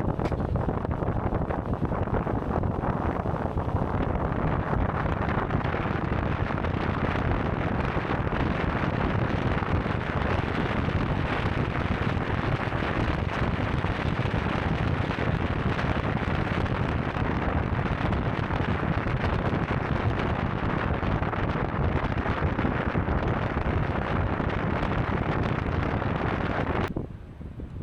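Steady wind buffeting a car-mounted camera's microphone while the car drives along, mixed with road and tyre noise. The noise drops away sharply near the end.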